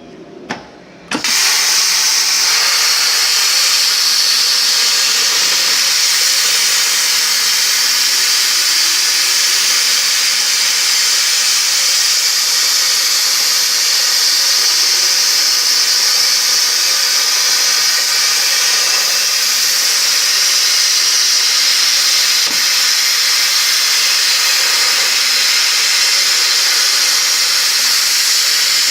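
100-amp plasma cutter on a CNC pantograph table: after a couple of clicks, the arc starts about a second in and cuts with a loud, steady, high-pitched hiss. Faint whines rise and fall underneath.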